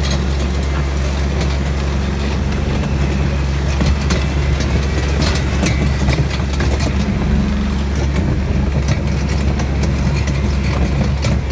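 Tractor engine running steadily with a constant low hum, with scattered clicks and rattles over it.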